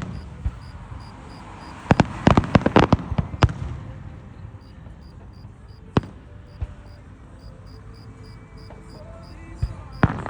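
Fireworks going off: a single bang, then a quick string of crackling bangs about two seconds in, another bang around six seconds and one more near the end.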